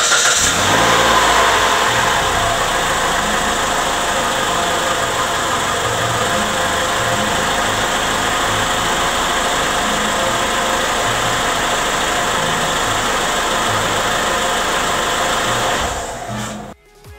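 2012 Mitsubishi Lancer's inline-four MIVEC engine running just after being started, heard from the open engine bay. It is a little louder for the first couple of seconds, then settles into a steady idle and cuts off near the end.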